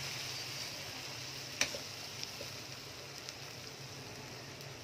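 Karela chicken curry sizzling in its oil in a metal cooking pot on the stove, a steady hiss that fades slightly. A sharp click of the spoon against the pot comes about one and a half seconds in, with a few faint ticks after.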